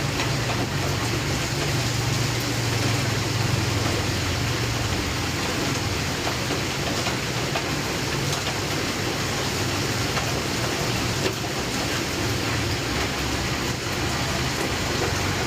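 Steady rain falling in a storm, an even hiss with a low hum underneath.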